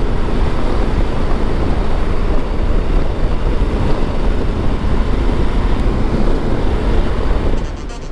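Motorcycle engine and wind rush at road speed, a steady dense noise; it drops off sharply near the end.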